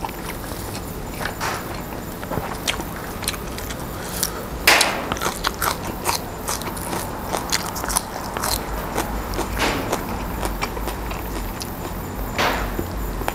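Close-miked eating: a person biting and chewing crisp fresh greens and herbs, with irregular crunches and sharp clicks, the loudest crunches about a third of the way in and near the end.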